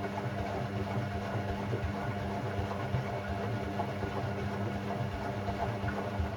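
Hoover Sportswear 1300 (AI130) washing machine running on its Delicate 15 cycle: a steady motor hum with a busy, churning texture, winding down at the very end.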